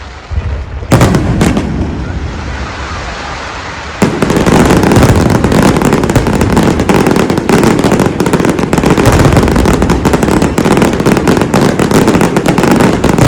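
Fireworks going off: a few sharp bangs about a second in, then from about four seconds a dense, continuous barrage of rapid bangs.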